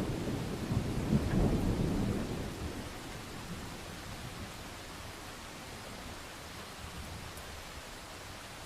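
A low rumble of distant thunder that swells in the first couple of seconds and fades out about three seconds in, over steady rainfall that continues alone.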